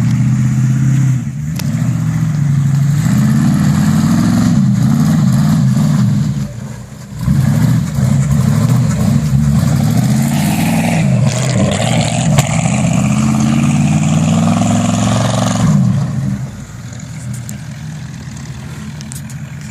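Pickup truck engine revved hard while drifting in snow, its pitch rising and falling over and over. It lets off briefly about a third of the way in, then settles to a lower, steadier run near the end.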